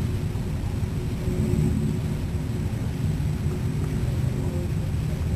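Engines of several classic cars running as they pull out of a parking lot and drive off, a steady low sound heard through a window pane.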